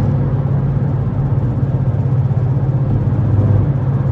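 BMW F30 sedan driving on a wet road: a steady low engine drone with road and tyre noise.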